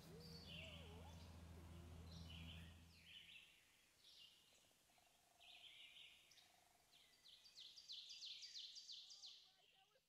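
Faint bird chirps and calls, ending in a quick run of repeated high notes near the end. A low steady hum stops about three seconds in.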